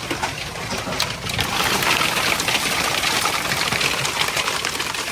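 Quarter-sized hail falling hard: a dense, steady clatter of countless hailstones striking, growing heavier about a second and a half in.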